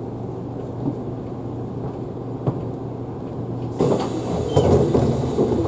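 Steady low hum inside a stationary Isuzu Erga Hybrid city bus, with a few light clicks. About four seconds in, a sudden hiss starts, with knocks and rattles over it.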